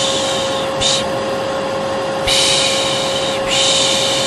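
Vacuum cleaner running steadily with an even motor whine. Over it comes a repeated 'shh, shh' shushing, about four hisses, the sound used to lull a baby.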